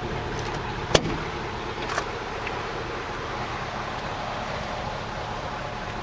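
A single sharp knock about a second in and a lighter click a second later, over a steady low rumble of background noise.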